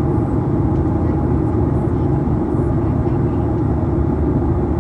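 Steady low rumble of a moving vehicle, with a faint constant hum above it.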